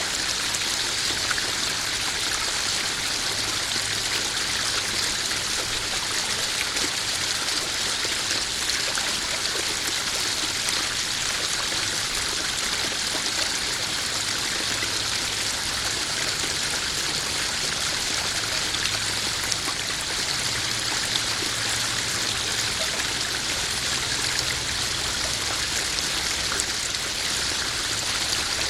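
Small garden pond waterfall splashing and trickling steadily into a koi pond, a continuous even rush of running water.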